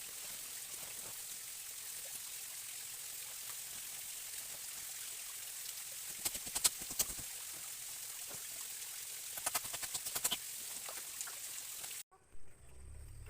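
Steady rushing of a forest stream, with two short clusters of sharp clicks about six and nine and a half seconds in. The water sound cuts off abruptly near the end.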